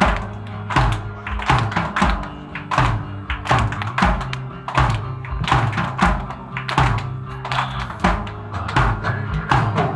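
Live alternative rock band playing an instrumental passage: the drum kit keeps a steady beat of about two hits a second over sustained low bass and guitar notes.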